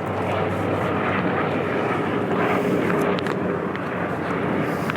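Helicopter flying overhead, a steady drone.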